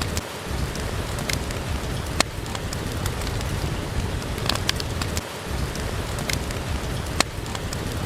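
Steady rain with a low rumble beneath it, and a few sharp pops here and there from a crackling fireplace.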